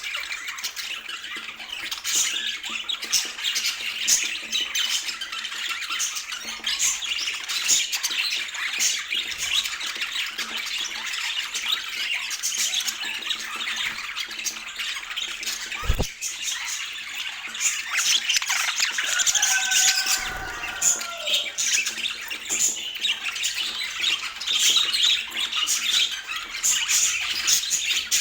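Budgerigars chattering and warbling continuously, with squawks and quick clicking calls. There is a single sharp knock about halfway through, and a short call falling in pitch a few seconds later.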